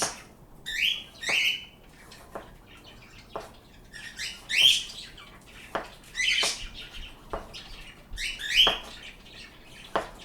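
Pet birds chirping and calling, short upward-sweeping calls every second or two, with a few sharp taps in between.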